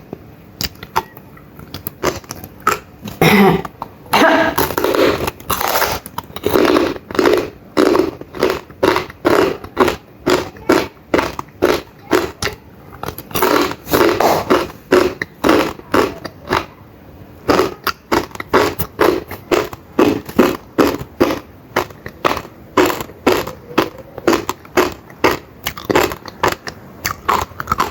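Close-up chewing of crunchy fried pork skin (chicharrón): loud, crisp crunches repeating at about two a second, with a few short pauses.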